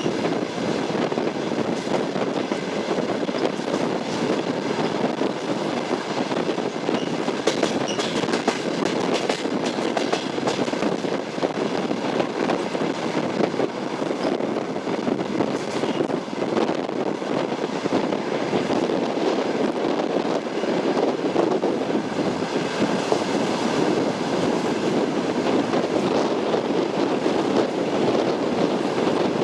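Train running on rails: a steady rumble with the clatter of the wheels over the rail joints.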